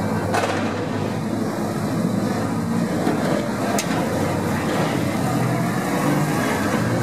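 Touring race car engines running hard on the circuit, a steady multi-toned engine note, with two sharp cracks, one about half a second in and another near four seconds.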